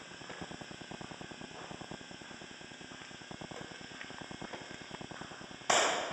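Reciprocating saw cutting through the sheet-metal wheel well of a pickup bed, a fast, even chatter of blade strokes. A sudden louder burst of noise comes near the end.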